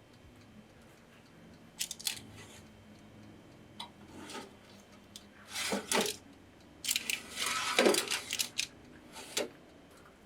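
A series of short clicks, clinks and rustling scrapes from things being handled, the busiest and loudest stretch about seven to nine seconds in.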